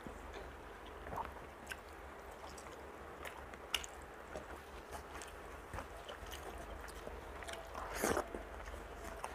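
Close-miked mouth sounds of a person eating rice by hand: soft, wet chewing and lip smacks with small clicks, and a louder smacking bite about eight seconds in.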